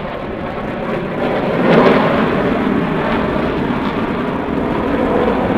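Aircraft engine noise from an airshow flyby, loud and swelling to a peak about two seconds in, then holding steady.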